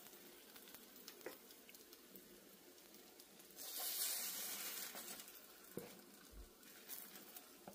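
French toast and sausages sizzling faintly in a frying pan. Around the middle the sizzle grows louder for about a second and a half as a spatula slides under a slice of toast.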